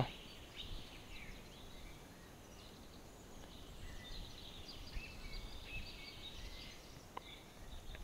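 Faint, scattered songbird chirps over a quiet outdoor background, with a single soft click about seven seconds in.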